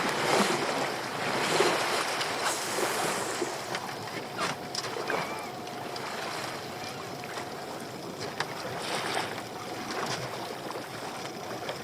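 Choppy sea water splashing and slapping against a small boat's hull in surges, with wind buffeting the microphone and scattered short knocks.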